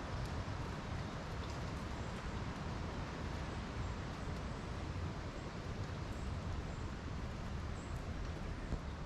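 Outdoor ambience: a steady low rumble, with faint, short high bird chirps now and then.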